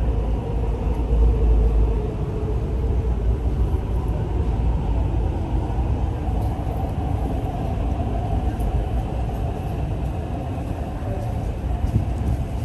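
MTR R-Train electric multiple unit running, heard from inside the passenger car: a steady rumble, heaviest in the first couple of seconds, with a faint steady whine.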